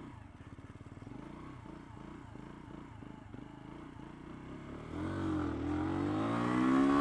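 Lexmoto Venom 125 motorcycle's single-cylinder 125cc engine running quietly at low revs, then opened up about five seconds in, its note rising as it accelerates.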